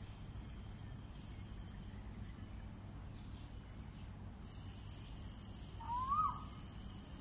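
Asian koel giving a single call note about six seconds in, rising in pitch and then dropping sharply. Behind it runs a steady low background hum with faint steady high tones.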